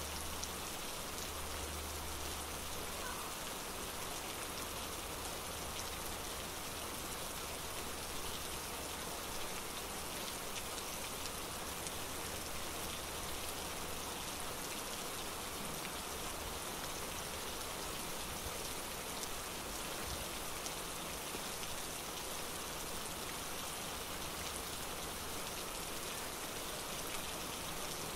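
Steady rain falling, with a dense scatter of fine drop ticks close by.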